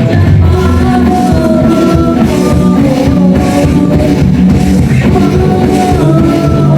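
Children's rock band playing a Thai rock song: a young boy singing lead over guitars, keyboard and drum kit, at a steady beat.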